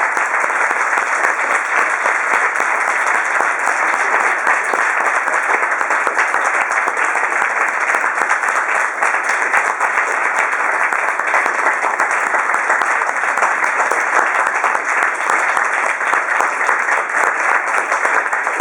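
Recital audience applauding, a dense steady clapping that holds an even level throughout.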